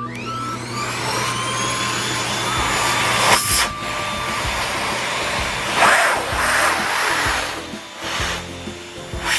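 Vacuum cleaner motor switching on, its whine rising as it spins up over the first couple of seconds, then running steadily with a couple of brief louder rushes of air about three and a half and six seconds in.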